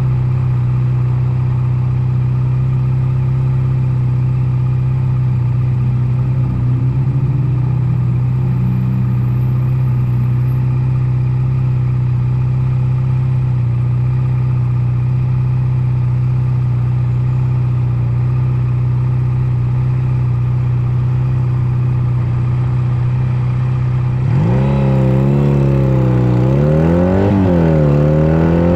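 Honda Nighthawk 250's parallel-twin engine running at a steady pitch, then, a few seconds before the end, revving up louder with its pitch climbing and dropping several times as it accelerates through the gears.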